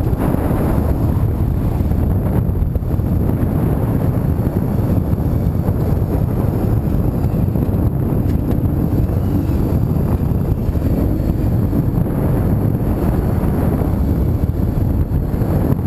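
Car driving at a steady speed: a steady low rumble of road and engine noise, with wind buffeting the microphone.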